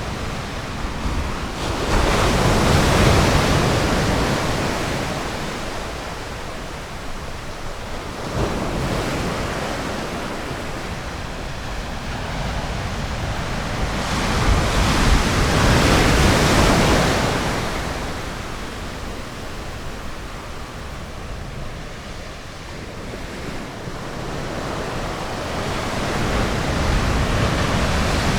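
Ocean waves breaking on a sandy bay beach, the surf swelling and ebbing away in slow surges several seconds apart.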